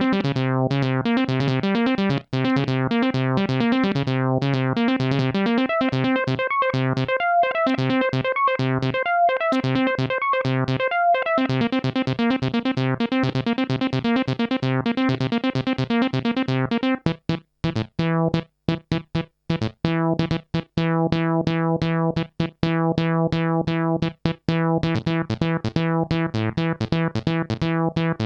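Roland SH-201 virtual analog synthesizer playing a factory arpeggio preset: a fast run of repeating notes over a held low chord. About seventeen seconds in it changes to a different, choppier pattern with short gaps between the notes over a new bass note.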